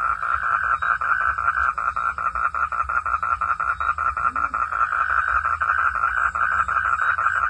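Frogs calling in a steady, rapid pulsed trill of about nine pulses a second, on one mid-high pitch and without pause.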